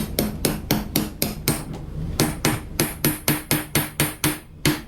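Hammer pounding a 1/2-inch carriage bolt through a drilled steel-plate-and-lumber beam in quick, even blows, about four a second, with a brief pause a little before the middle. The bolt is catching in its hole and won't go through.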